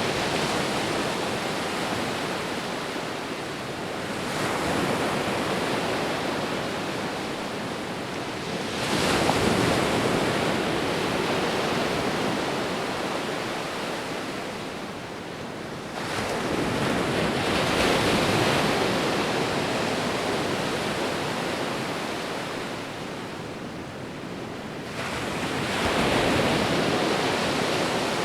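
Sea waves breaking on a shore: a steady wash of surf that swells with a new breaker about every seven seconds, four times, each fading slowly before the next.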